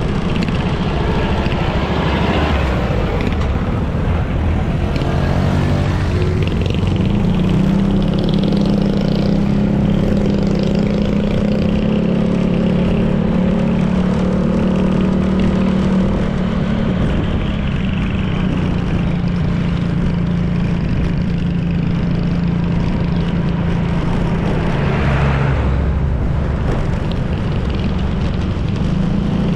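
Honda PCX 160 scooter's single-cylinder engine running under way with wind and road noise. Its pitch rises as it accelerates about six seconds in, holds steady, drops briefly near twenty-five seconds and climbs again near the end.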